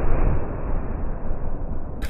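Tannerite target explosion's dull rumbling aftermath, slowly fading and cut off suddenly at the end.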